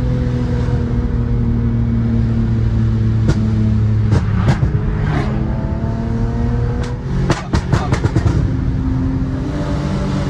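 BMW E46 M3's S54 inline-six, fitted with aftermarket headers and exhaust, running under way: its note slides slowly down, then climbs again, with a series of sharp cracks in the middle.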